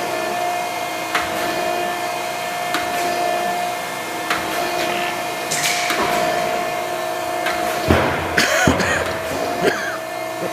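Kent hydraulic surface grinder running with a steady hum, and a short knock about every second and a half. Near the end there is a burst of louder clatter and scraping.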